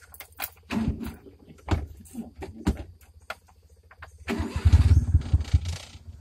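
A few knocks, then the small van's engine being started: a loud, rough stretch of cranking and catching for about a second and a half, settling into a steady low idle near the end.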